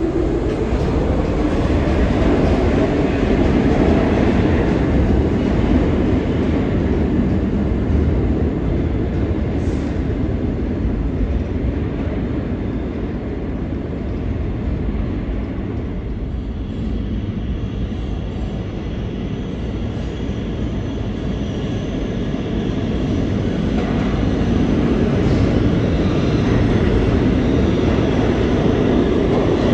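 New York City Subway A train running through a subway station: a continuous rumble of wheels on rail, easing off in the middle and building again toward the end.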